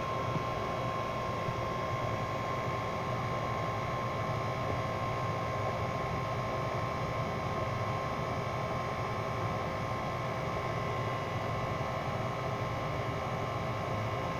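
A steady hum and hiss with a constant high-pitched tone running through it, unchanging throughout.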